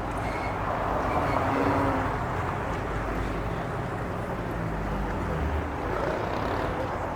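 Car engine running steadily, among general background noise.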